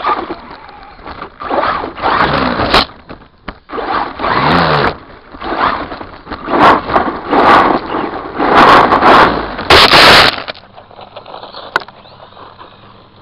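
Redcat Volcano RC monster truck driving over rough ground, picked up by its onboard camera: a loud, scraping rumble of tyres and chassis in repeated bursts as the throttle is worked. It stops about ten seconds in, leaving a low hiss with a single click near the end.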